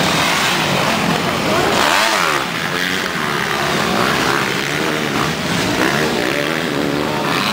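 Motocross dirt bike engines revving, their pitch rising and falling over and over with the throttle.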